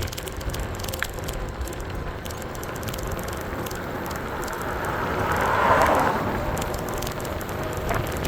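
A car passing, its rushing tyre and road noise swelling to a peak about six seconds in and then fading, over a steady low rumble of wind on the microphone.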